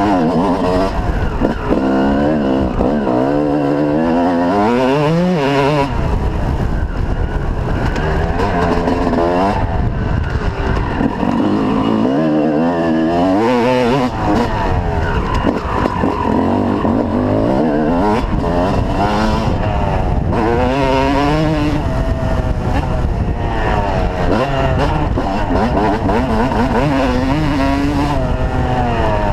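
Two-stroke motocross bike engine running hard, its pitch climbing and dropping back over and over as the throttle is opened and shut around the track.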